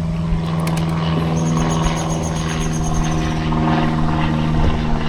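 Steady mechanical hum of a running motor, a constant low pitch with overtones.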